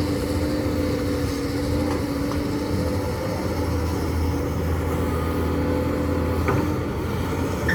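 Excavator diesel engine running steadily under load, a low engine note with a steady whine above it. A few light knocks come in the second half.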